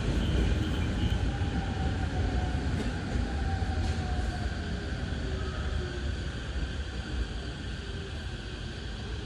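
Electric commuter train running at the station, its motor whine gliding slowly down in pitch as it slows, over a steady low rumble, and fading a little.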